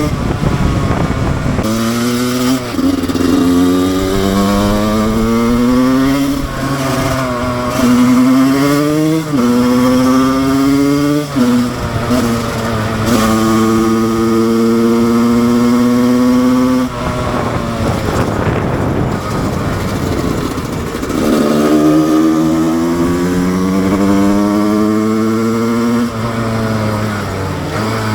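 Husqvarna SM 125 two-stroke supermoto engine accelerating hard through the gears: the revs climb, drop at each upshift and climb again several times. In the middle it holds high revs for a few seconds, then falls and builds up again.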